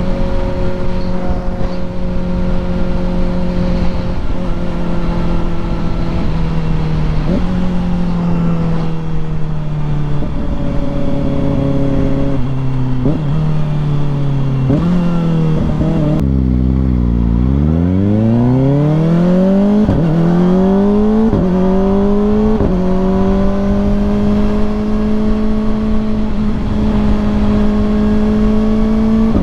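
Kawasaki ZX-4RR inline-four motorcycle engine heard while riding. The bike slows through several downshifts, each marked by a short auto-blipper throttle blip. About two-thirds of the way through it pulls away hard, up through several quick-shifter upshifts, and settles into a steady cruise near the end.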